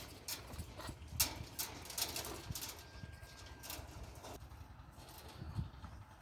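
Irregular sharp clicks and light knocks, a few a second, over a low rumble.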